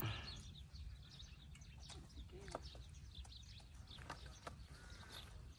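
Quiet open-air ambience: a faint low rumble with scattered short, faint bird chirps.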